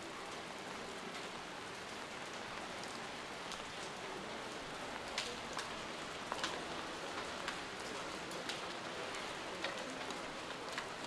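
Steady rain falling, with irregular sharp drop ticks every second or so.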